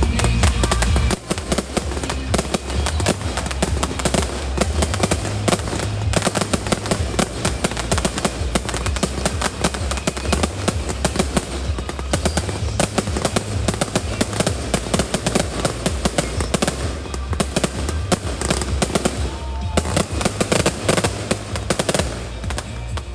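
Fireworks display: a dense, rapid run of crackling bangs and reports, over music with a heavy bass.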